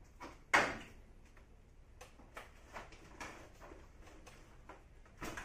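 Knocks and clicks from a split air conditioner's indoor unit as it is dismantled and taken off the wall. A sharp knock comes about half a second in, then a run of lighter clicks and taps.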